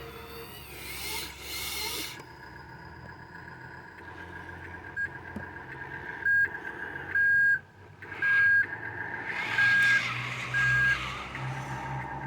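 A reversing alarm beeping, one single-pitched beep about every second starting about halfway through, over the steady low running of a diesel truck engine.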